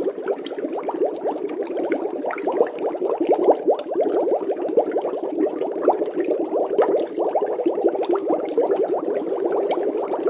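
A dense chorus of many short, overlapping calls from a large group of animals, each call falling quickly in pitch, sounding as a steady unbroken din.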